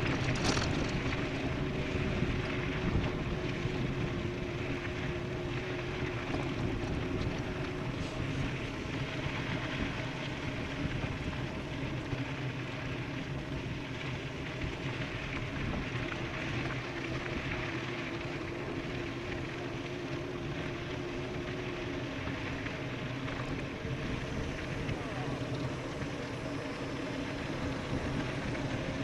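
E-bike riding fast on a road: a steady rush of wind and tyre noise, with faint steady humming tones underneath. There is a brief sharp tick just after the start.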